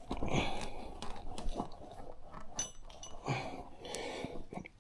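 Bar of soap rubbed around the bead of a motorcycle tyre: several short scratchy rubbing strokes with a few light clicks and knocks from handling the tyre.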